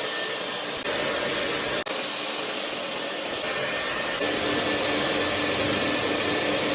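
Vent-cleaning vacuum running: a steady rush of air with a faint high whine. The level steps up and down a few times and drops out for an instant about two seconds in.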